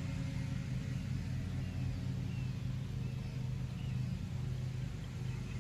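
Steady low mechanical hum with a constant pitch, like an engine or motor running at a distance, with a few faint short chirps higher up.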